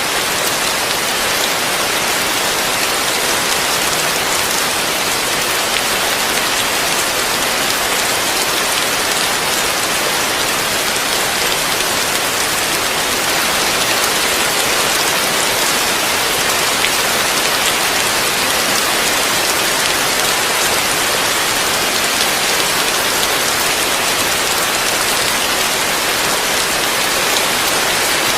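Heavy rain falling steadily on a roof, heard from beneath it as an even, unbroken hiss of drops.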